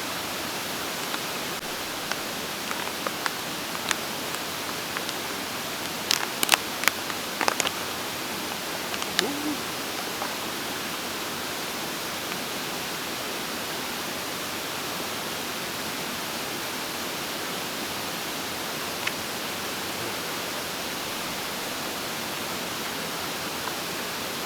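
Steady rushing of a mountain stream, with a few small clicks about a quarter of the way in.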